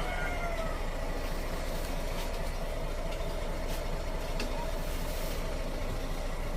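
A King Long van's engine idling steadily. A rooster's crow trails off in the first second.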